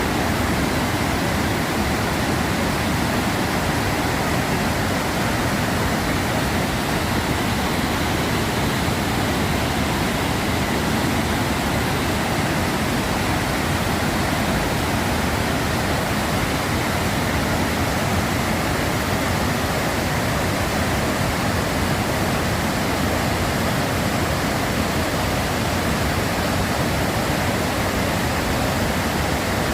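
Bad Gastein waterfall rushing, a loud, steady, even noise of falling water.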